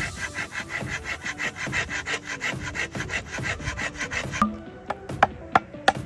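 Hand saw cutting through bamboo in fast, even rasping strokes, about five a second. It stops suddenly about four seconds in, followed by several sharp wooden knocks.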